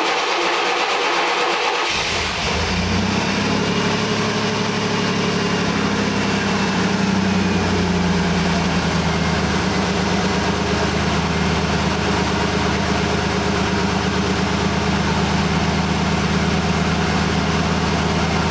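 A 1992 GMC Sonoma's 4.3-litre V6 is cranked by the starter and catches about two seconds in, then idles steadily.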